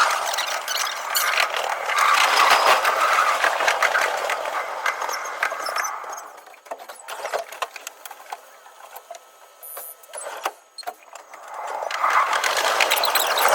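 Running noise of a Tokyu 5050 series 4000 subseries electric train heard from the cab, sped up to double speed so it comes as a fast, high rattle of wheels and track. About halfway through it dies down to a quiet stretch with scattered clicks, then rises again near the end.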